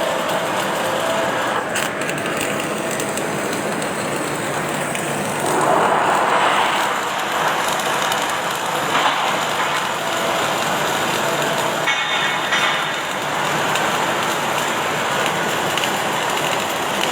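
Automatic welding machine at work: a steady noise of the welding with factory background, swelling louder about six seconds in and again briefly a few seconds later.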